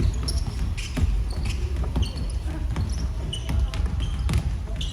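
Basketball bouncing on an indoor court, a string of irregular thuds, with short high chirps of sneakers squeaking on the floor between them.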